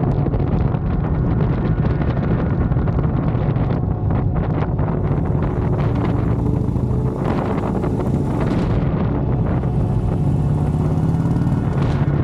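Harley-Davidson Dyna's V-twin engine running steadily under way, with wind rushing over the microphone.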